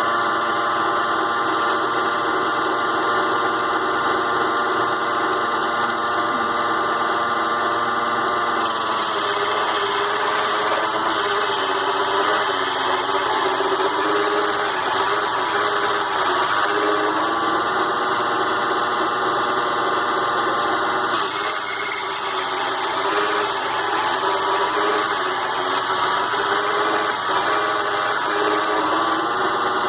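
Mini metal lathe driven by a DC motor, running as it turns a cut in aluminium stock. Its steady, pitched motor whine wavers and dips from about nine seconds in as the cutting load changes.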